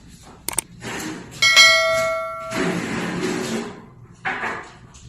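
Metal parrot cage being handled during cleaning: a sharp metallic clang rings out for about a second, followed by scraping and rattling as parts are slid and moved.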